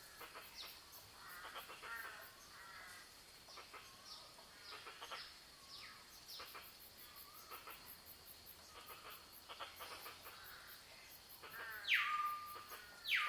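Several wild birds calling, with many quick whistles that sweep downward. Near the end come two loud calls, each dropping steeply and then holding a steady note. A fast, regular high ticking runs underneath.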